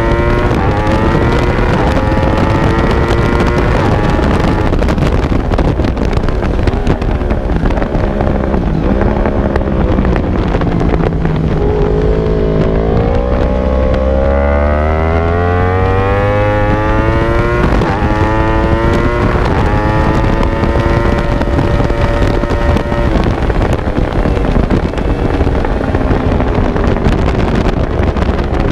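Racing motorcycle engine at high revs, heard from on board, its pitch climbing as it accelerates and falling as it slows for corners, several times over. Wind buffets the microphone throughout.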